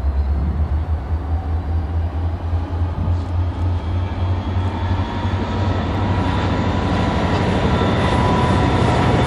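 Union Pacific freight train approaching, still out of sight: a low rumble and wide rolling noise, joined about three seconds in by steady high-pitched tones that grow louder toward the end.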